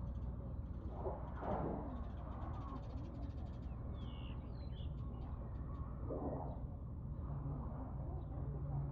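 A crow cawing a few times, with a brief high chirp from a small bird about four seconds in, over a steady low hum.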